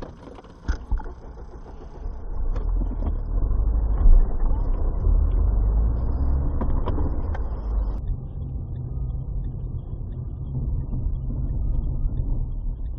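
Steady low rumble of a motor vehicle driving, engine and road noise, with a few short knocks. The sound changes abruptly about eight seconds in.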